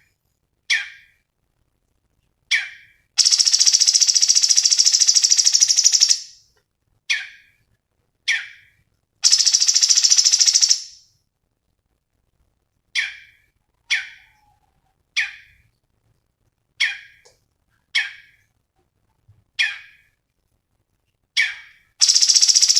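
A cucak cungkok bird calling: short sharp falling call notes, about one a second, broken by two long rapid buzzing trills of two to three seconds each, with a third trill starting near the end.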